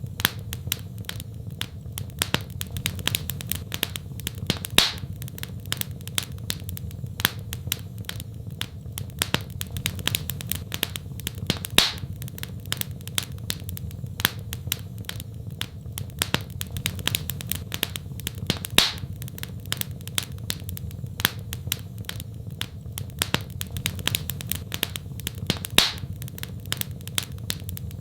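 Wood fire crackling, with dense small snaps throughout and a louder pop about every seven seconds, over a steady low rumble.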